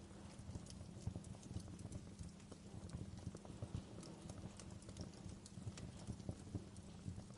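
Wood fire crackling in a fireplace: a low, steady rumble of burning logs with frequent small, irregular pops and snaps.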